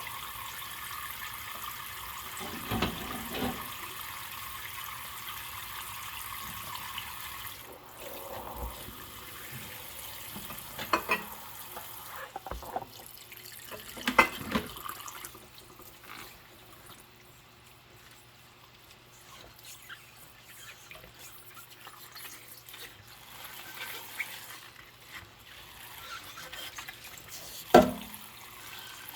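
Hand dishwashing at a kitchen sink: a tap runs steadily and shuts off about a quarter of the way through, then quieter water sounds follow. Dishes knock against each other or the sink a few times, the loudest knock near the end.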